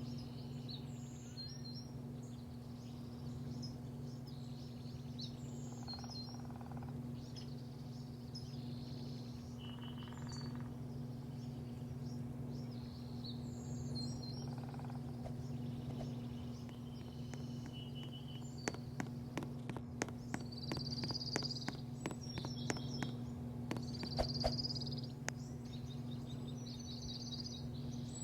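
Small birds chirping and twittering over a steady low hum. A spell of quick, sharp clicks comes in the second half.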